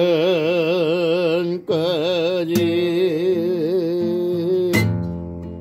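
A solo voice singing a Korean song with strong vibrato on long held notes, over instrumental accompaniment. The voice stops sharply about five seconds in, leaving the accompaniment playing more softly.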